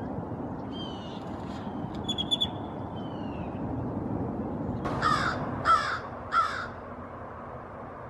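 A grackle gives thin falling whistles and a short rattle of clicks, then an American crow caws three times, the harsh caws the loudest sounds.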